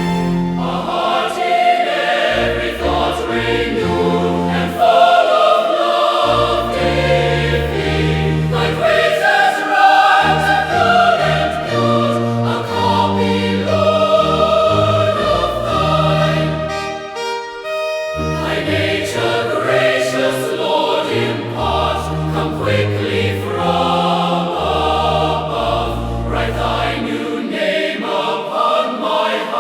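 Choir singing a hymn, with sustained bass notes underneath; a short break a little past the middle before the singing resumes.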